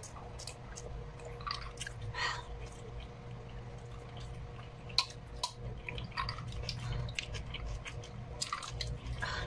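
Close-up chewing of food, with small wet mouth clicks, one sharper click about five seconds in. A steady low hum runs underneath.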